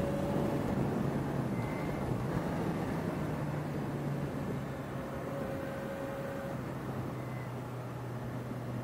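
Suzuki Bandit 600's inline-four engine running at a steady cruise under a continuous rush of noise, heard from the motorcycle while riding.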